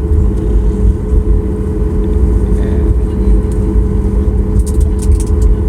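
Airliner cabin noise: a steady, loud low rumble from the jet engines, with a constant hum running through it.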